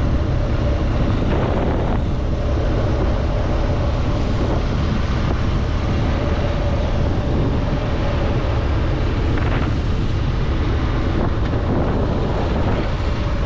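BMW R1200GS Adventure's flat-twin boxer engine running steadily at riding speed, with wind rushing over the microphone.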